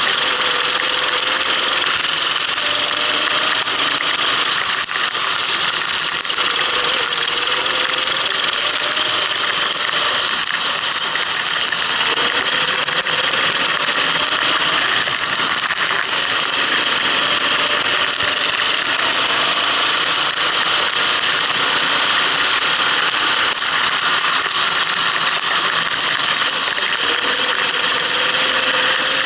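Racing kart engine heard onboard, its note climbing and dropping again and again as the kart accelerates and lifts, over a strong steady hiss.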